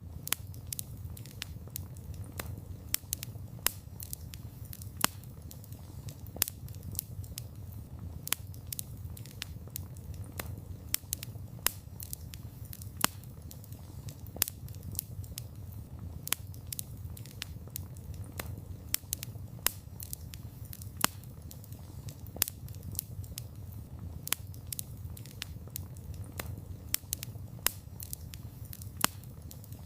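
Campfire of burning wood crackling, with frequent sharp pops and snaps over a steady low rumble of the flames.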